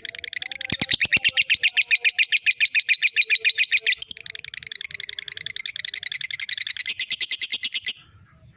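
Lovebird practising its ngekek, a long rapid chattering trill of sharp high chirps at about ten a second. There is a brief break about four seconds in, and the trill stops abruptly near the end.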